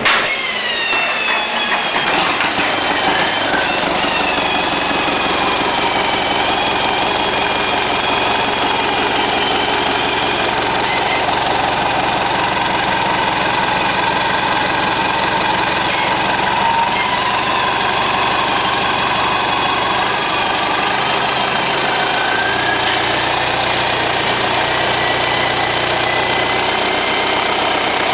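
Isuzu 4BD1-T four-cylinder turbo-diesel engine starting up right at the beginning, its revs dropping over the first couple of seconds and then idling steadily.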